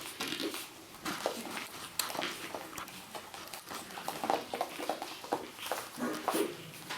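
Five-week-old Shih Tzu puppies moving about, with many quick clicks and taps and a few brief squeaks.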